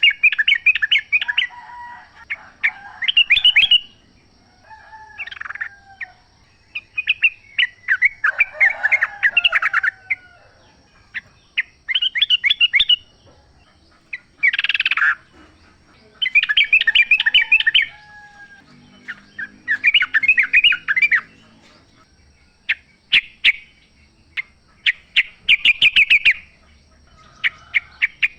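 Yellow-vented bulbul (trucukan) singing: short, rapid bubbly phrases of chattering notes, repeated every couple of seconds.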